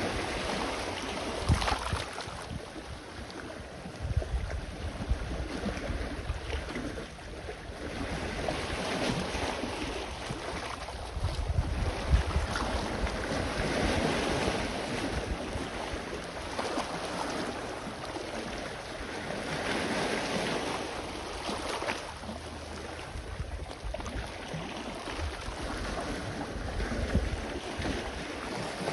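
Sea waves washing onto the shore, the surf swelling and ebbing every few seconds, with gusts of wind buffeting the microphone in deep rumbles.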